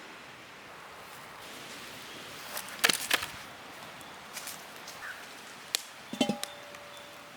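Metal cookware knocking and clinking: a cluster of sharp strikes about three seconds in, another knock near six seconds, and a couple more just after, the last leaving a brief metallic ring.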